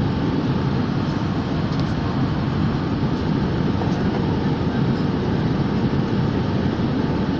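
Steady drone of an airplane in flight heard from inside the cabin: engine and airflow noise, even and unbroken, strongest in the low range.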